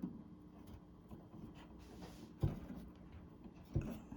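Three short clicks and knocks from handling the microwave's door switch wiring, the loudest about two and a half seconds in, as push-on spade connectors are fitted to the switch terminals.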